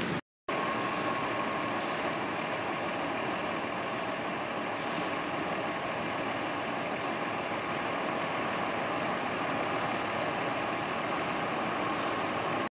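Engine of a railway work vehicle running steadily at idle.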